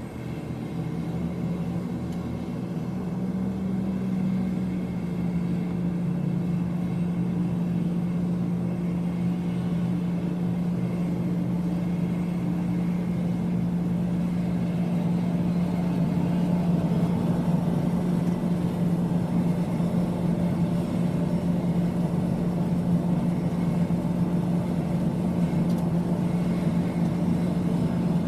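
Aeroplane engine running with a steady low drone, growing louder over the first few seconds and then holding steady.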